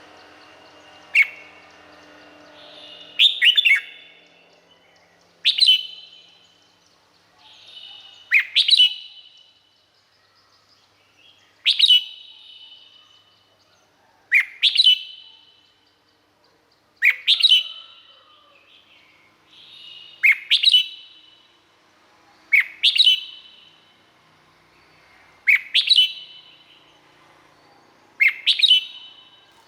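Red-whiskered bulbul singing: short, loud, sharp song phrases repeating every two and a half to three seconds, with softer notes between them.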